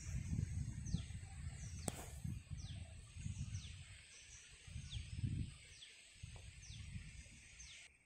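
A bird giving repeated short, high calls that fall in pitch, roughly one a second, over a low, gusty rumble of wind on the microphone. There is one sharp click about two seconds in.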